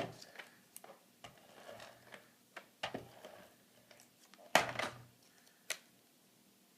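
Paper rustling and tapping as a cut-out piece of patterned paper is handled and stuck down onto a book cover, in a few short scattered bursts; the loudest rustle comes just before 5 s, followed by a sharp tap, then it goes quiet.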